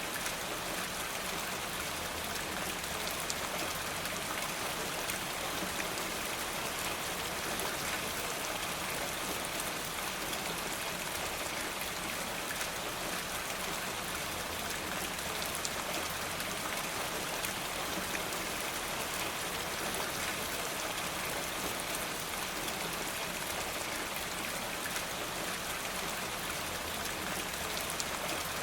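Steady, even rainfall, with scattered small sharp ticks through it.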